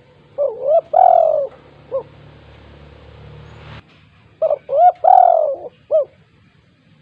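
Spotted dove (tekukur) cooing: two loud phrases of several rising-and-falling coo notes, a few seconds apart.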